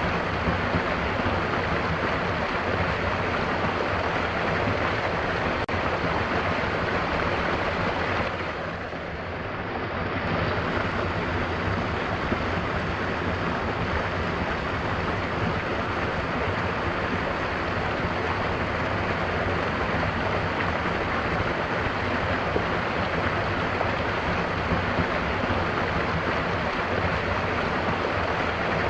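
Steady rushing of a mountain waterfall, an even wash of falling water. The sound dips briefly and turns duller about a third of the way in, then comes back to full.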